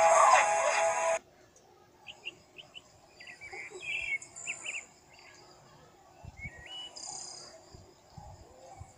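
A song with singing cuts off about a second in, leaving faint bird chirps: a quick run of short high calls, then a few scattered ones.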